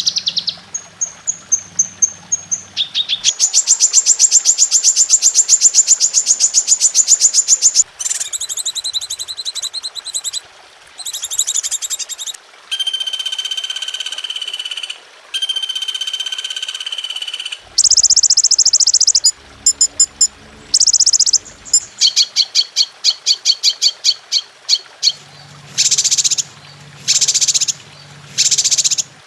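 A medley of recorded songbird songs and calls used as masteran (tutor song for cage birds): rapid high trills, repeated clear whistled notes and chattering phrases, each lasting a few seconds before switching abruptly to the next. A low pulsing sound runs under the song in the last few seconds.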